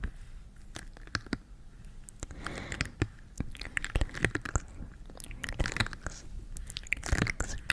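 Close-miked ASMR trigger sounds: irregular crisp crunching and clicking, many small crackles in quick succession.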